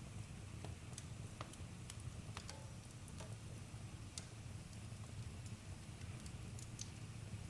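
Wood campfire burning, with scattered sharp crackles and pops at irregular moments over a steady low rumble.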